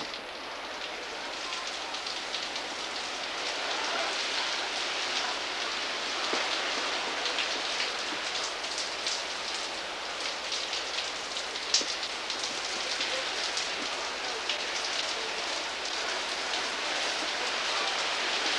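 Hurricane wind and driving rain: a steady rushing hiss with many small ticks of drops striking, and one sharper tick about twelve seconds in.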